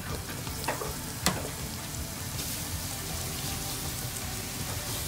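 Marinated pork, onions and garlic sizzling steadily in hot oil in a wok as they are stirred with a wooden spatula. A few sharp clicks of the spatula against the pan come in the first second or so, the loudest just over a second in.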